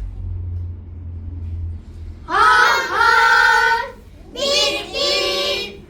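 A group of children singing two held phrases together in unison as part of a choral speaking performance. The first phrase comes after about two seconds of low rumble, and the second follows a short pause.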